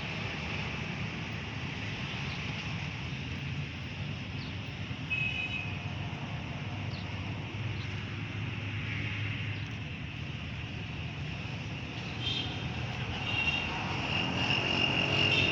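Steady high chirring of insects with a low rumble underneath and a few brief chirps.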